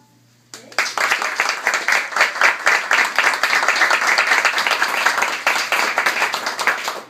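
Audience applauding, beginning about half a second in and fading near the end.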